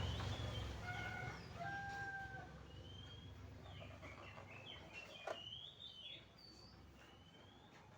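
A rooster crowing once about a second in, a held, pitched call, followed by small birds chirping with short rising whistles.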